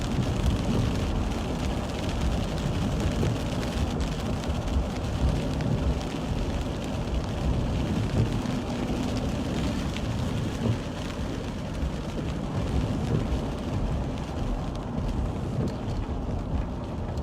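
Light rain and wet-road noise in a moving car: a steady hiss over a low rumble.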